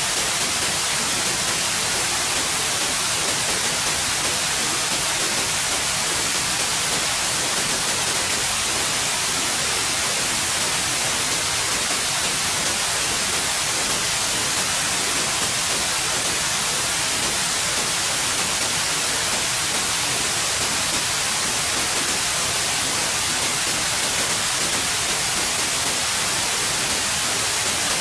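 Steady white noise: an even, unchanging hiss across all pitches, strongest in the treble.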